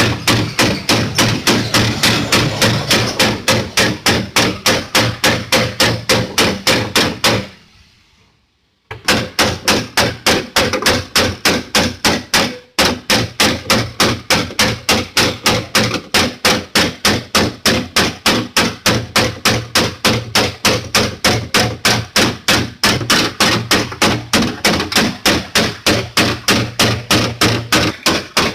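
A hammer beating sheet-metal car body panel, rapid even blows at about four a second: panel-beating out the dents in a damaged BMW boot lid. The hammering stops for about a second around eight seconds in, then goes on.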